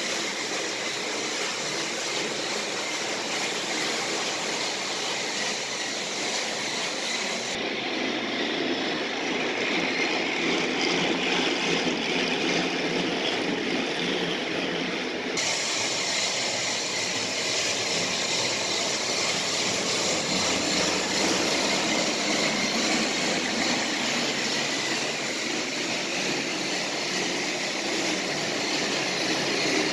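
Tomy Plarail battery-powered toy train running along its plastic track pulling freight cars: a steady whir of the small motor and gearing. The sound changes for several seconds in the middle, then goes back to how it was.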